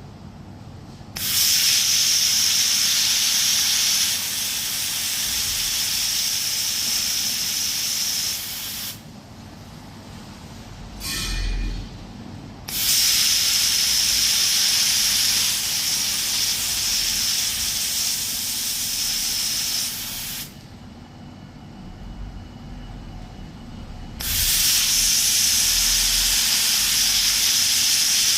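2000 W fiber laser welding machine hissing through its welding passes on immersion heater elements. It comes in three long bursts of about seven to eight seconds, each brightest for its first few seconds, with a short crackling burst in the first quieter gap.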